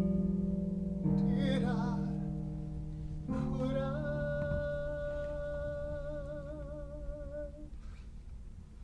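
End of a ballad: a singer holds a long final note with vibrato over sustained accompaniment chords. The note stops near the end, leaving only a faint hum.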